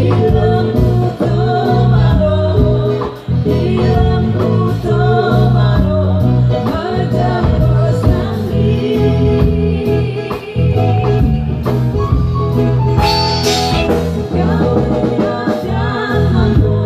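A band playing a song with singing over a heavy bass line, recorded on a phone-type device with rough sound quality.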